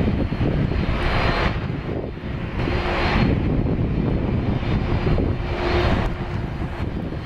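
Boeing 747 landing, the roar of its four jet engines over a deep rumble, with a hiss that swells and fades about every two seconds.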